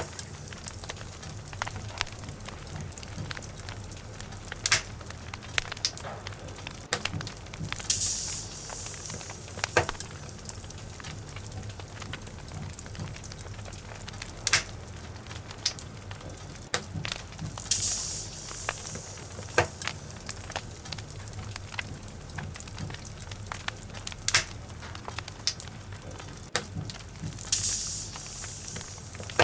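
Log fire in a fireplace crackling, with irregular sharp pops and snaps over a soft hiss of burning wood. The hiss swells briefly about every ten seconds.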